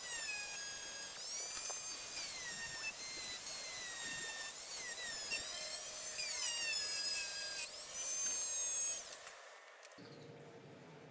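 Small high-speed power tool whining, its pitch sagging as it is loaded and climbing back as it is eased off, several times over. It cuts off suddenly about nine seconds in.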